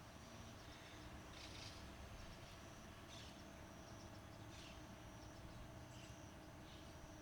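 Faint outdoor ambience: a steady high insect trill, with short faint calls about every one and a half seconds over it.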